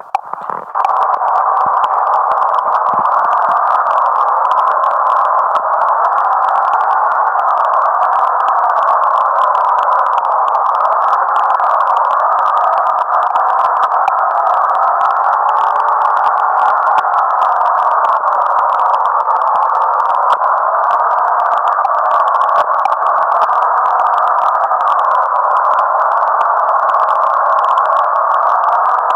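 A loud, steady, slightly wavering electronic-sounding tone in the middle range, starting about a second in and holding without a break.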